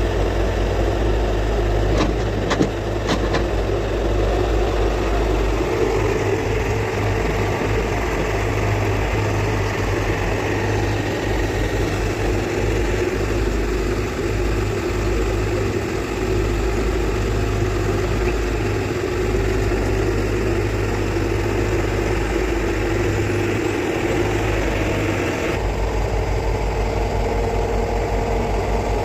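Excavator diesel engine running steadily, with a few sharp knocks about two to three seconds in.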